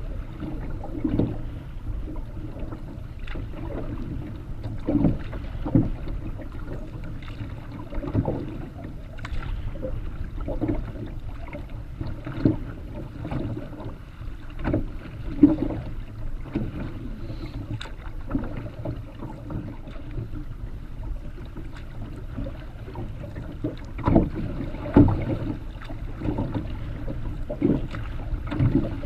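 Solo Kevlar canoe on rough, windy lake water: waves splash and slap against the hull and the paddle strokes in irregular splashes about every second or two, over a steady low rumble of wind on the microphone.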